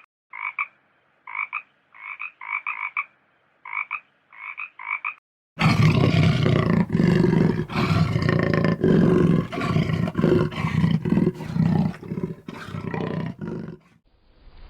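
A frog croaking in quick groups of short calls for about five and a half seconds. It cuts abruptly to a much louder, low, rough animal call that pulses on until near the end.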